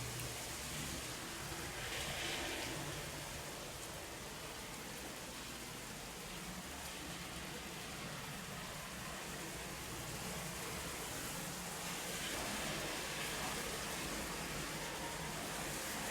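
Steady rain falling, an even hiss that swells a little about two seconds in and again near the end.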